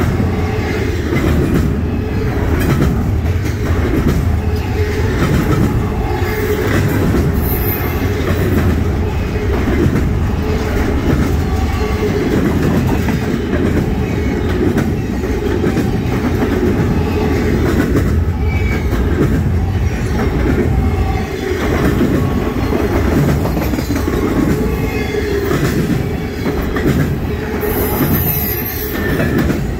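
Double-stack intermodal well cars of a freight train rolling past close by: a steady, loud rumble of wheels on rail with a repeated clatter of wheels over the track.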